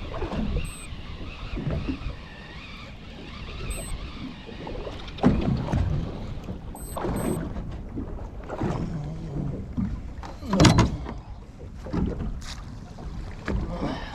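Small fishing boat at sea: waves slapping the hull in irregular knocks over wind noise on the microphone, with a few short, high electronic beeps in the first half.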